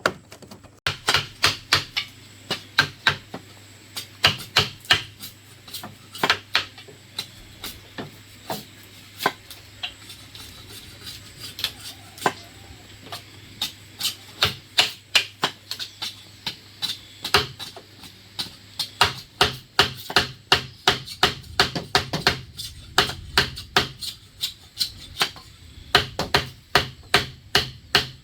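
A hand tool striking bamboo over and over in quick runs of sharp blows, a few a second, with short pauses between runs.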